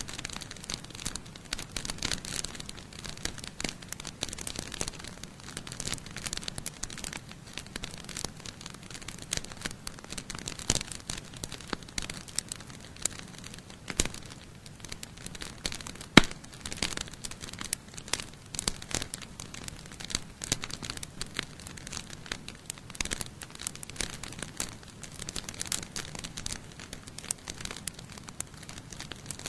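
Campfire crackling: burning firewood giving off a dense, irregular run of small snaps and pops, with one much louder sharp pop about sixteen seconds in.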